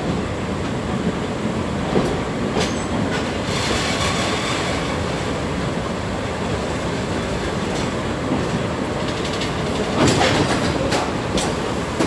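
Sagano Trolley Train car rolling along the track: a steady rumble of wheels on rails with scattered clicks, and a louder burst of wheel noise about ten seconds in.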